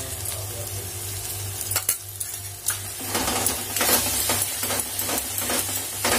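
Paneer bhurji sizzling in hot oil in a kadai, nearly done with the oil separated out of the masala. From about three seconds in, a steel spatula stirs and scrapes through it against the pan in quick repeated strokes, after a couple of light clicks.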